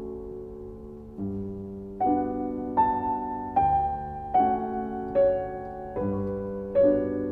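Background music: slow, gentle piano, soft chords with single notes about every 0.8 s that pick up from about two seconds in.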